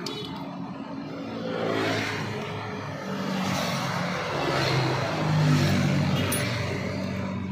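Motor vehicle traffic: engines running as vehicles pass one after another, the noise swelling and fading every second or so.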